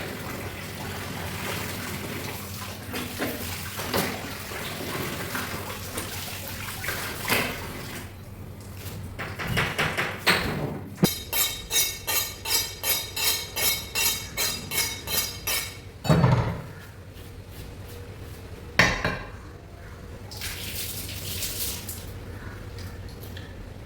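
Raw chicken being washed and cut: water splashing with metal clattering, then a run of about a dozen quick, even chopping strokes, roughly three a second, and two heavy thuds.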